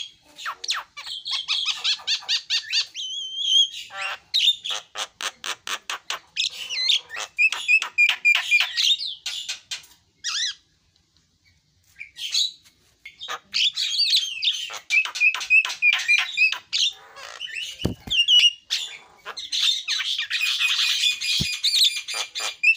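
Javan myna (jalak kebo) singing: fast runs of harsh chattering notes and squawks mixed with whistled phrases, breaking off for about two seconds near the middle before starting again.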